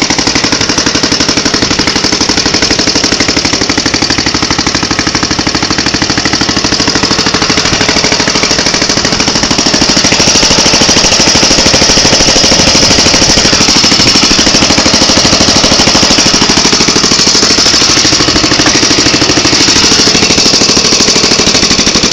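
Bernard W12 stationary engine running with a rapid, even firing beat, getting a little louder about halfway through.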